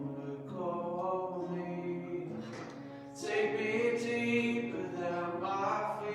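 Church worship music: singing voices holding long notes over instrumental accompaniment, growing louder about three seconds in.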